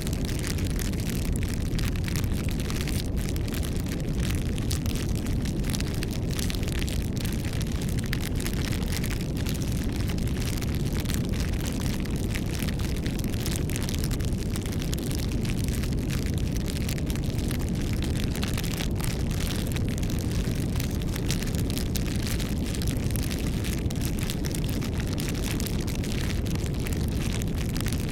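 Campfire burning steadily: a low rumble of flames with constant small crackles and pops from the burning wood.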